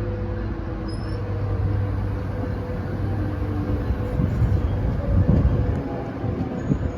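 Metrolink commuter train's diesel locomotive running at the station, a steady engine hum over low rumbling rail noise.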